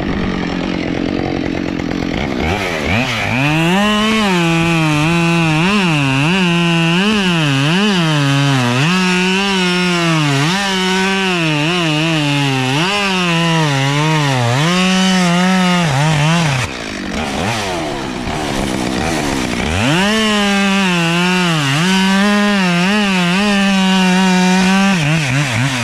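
Petrol chainsaw revving up about two seconds in and cutting through wood, its engine pitch dipping and recovering as the chain loads in the cut. Past the middle it drops back off the throttle for a few seconds, then revs up and cuts again until near the end.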